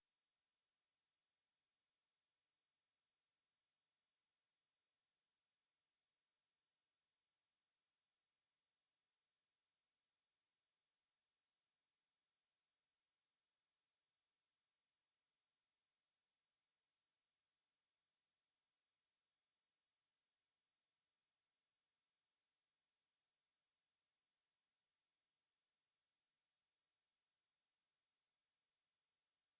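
A pure 5317 Hz sine-wave test tone, a single steady high-pitched note held at constant level without change.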